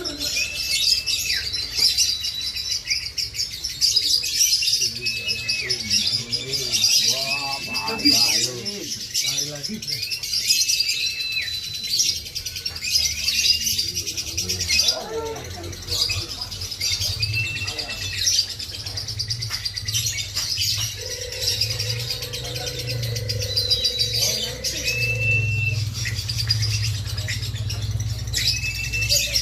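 Lovebird chattering in a long unbroken run of rapid high chirps, with short level whistled notes repeating every second or two.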